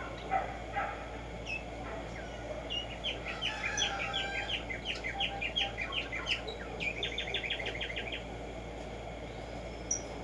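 Black-striped sparrow (tumba yegua) singing: a series of chirping notes that runs into a fast trill about seven seconds in, with a few single chips before and after.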